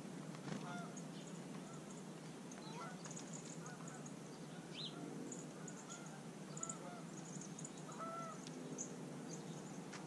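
Birds calling around a backyard feeder: a string of short arched calls about once a second, with brief high chips scattered between them.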